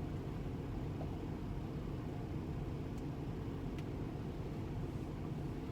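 Steady low rumble of a parked 2015 Kenworth T680 semi truck, heard from inside its cab, with a couple of faint ticks about three and four seconds in.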